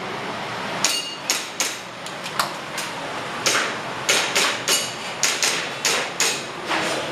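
Airsoft pistol firing a rapid string of about fourteen sharp shots, spaced irregularly in pairs and quick runs as the shooter moves through a timed course of fire. Several shots carry a short metallic ring.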